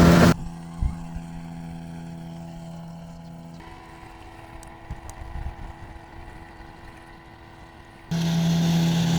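An engine running steadily at an even pitch. It drops abruptly to a much quieter level just after the start, with a few faint knocks, and comes back loud about eight seconds in.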